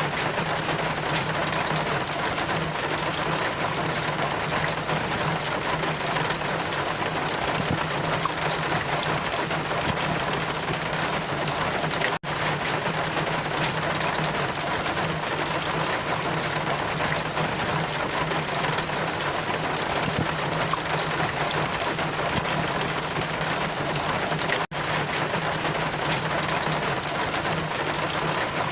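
Steady rain and wind as an even wash of noise, dropping out for an instant twice, about 12 seconds in and again near 25 seconds, where the looped recording restarts.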